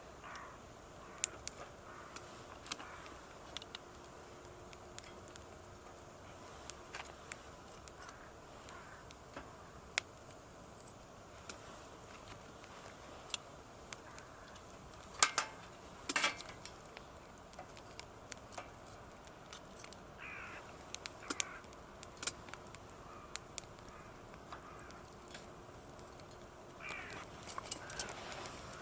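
A crow cawing, with the two loudest caws close together about halfway through and a few fainter calls later. Sparse sharp pops and crackles from a wood campfire run underneath.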